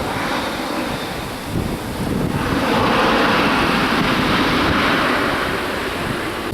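Jet airliner engine noise, a steady rushing that swells about two seconds in and holds, with wind buffeting the microphone.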